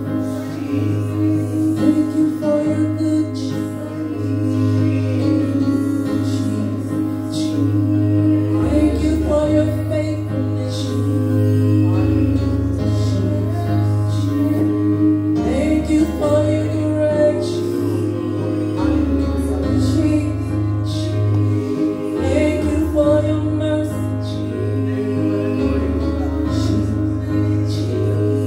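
Gospel praise-team worship song: female and male voices singing over a band, with a steady bass line moving through held chords.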